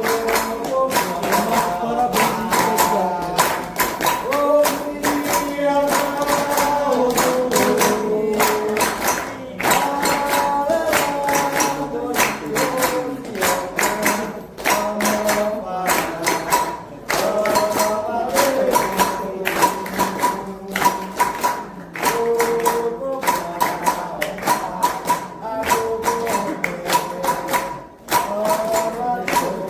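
Candomblé ritual chant: singing over atabaque hand drums and other percussion, with a dense steady beat of strokes throughout.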